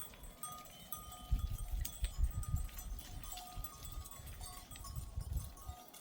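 A flock of sheep and goats, with short repeated bell-like tones and bleats, over an irregular low rumble.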